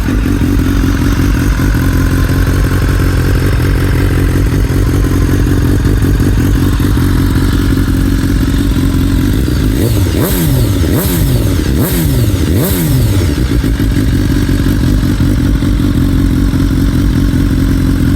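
2018 BMW S1000R Sport's inline-four engine idling through an Akrapovic exhaust, blipped four times in quick succession about two-thirds of the way in, each rev falling straight back to idle.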